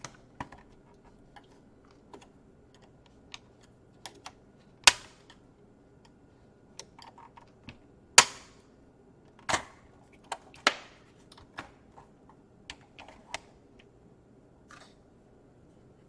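Sharp plastic clicks and snaps from a laptop's casing clips popping loose as the case halves are pried apart, coming irregularly, the loudest about five and eight seconds in.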